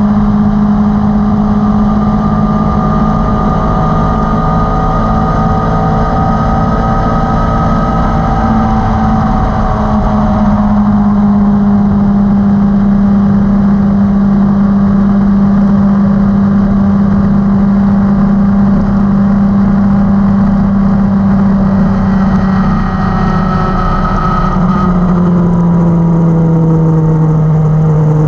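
Inline-four sport motorcycle engine running at a steady cruising speed, heard from the bike itself over a constant rush of wind and road noise. About three-quarters of the way through, the engine note steps down to a lower pitch and holds there.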